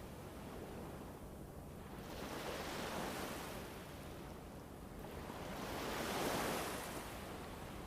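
Ambient soundscape of rushing wind or surf, an even wash that swells and fades about every three seconds over a steady low rumble.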